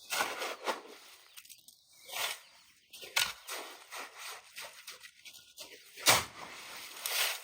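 Irregular noisy scraping and rustling strokes of hand work, with the loudest, sharpest stroke about six seconds in.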